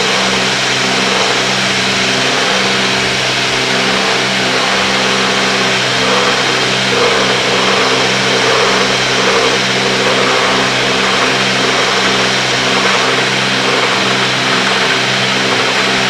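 Cessna 310's twin piston engines and propellers droning steadily in the pattern, heard through the cockpit intercom, with a slow regular pulsing in the drone from about six seconds in.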